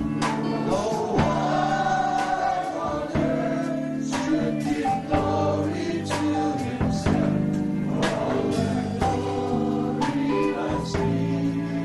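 Choir singing a gospel song over held instrumental chords with a steady beat.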